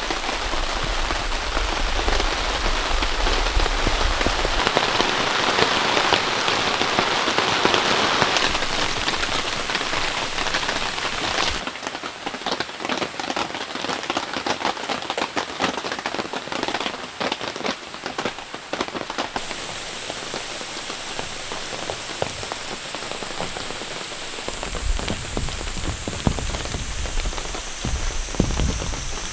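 Heavy rain falling as a dense, steady hiss. About twelve seconds in it changes abruptly to a lighter patter of separate, distinct drops striking a surface.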